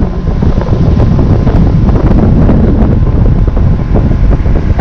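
Heavy wind buffeting the microphone, a loud low rumbling rush, as the fishing boat runs across the river.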